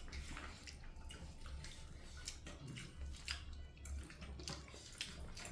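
Quiet eating sounds: scattered soft clicks and smacks of food being handled and chewed, over a steady low hum.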